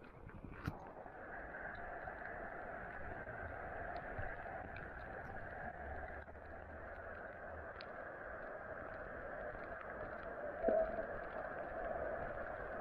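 Steady rushing hiss of heavy rain falling on the estuary water around a pier, swelling about a second in and then holding even. A brief tonal squeak stands out near the end.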